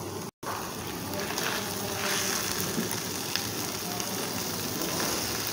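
Fish and cassava filling sizzling as it fries in a non-stick pan, a steady hiss with faint crackles. The sound drops out for an instant just after the start.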